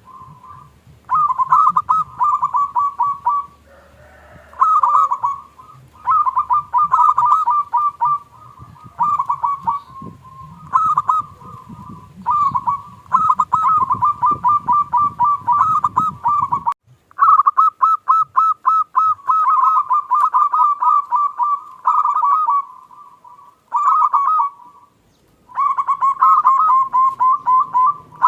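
Zebra dove (perkutut) song: repeated phrases of rapid, evenly spaced cooing notes, each phrase a second or two long with short pauses between. A low background hum underneath drops away suddenly about two-thirds of the way through.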